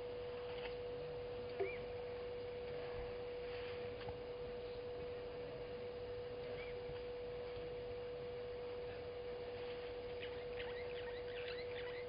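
A steady single-pitch tone holds throughout, with a couple of faint bird chirps early on the way and, near the end, a run of quick, high twittering bird calls.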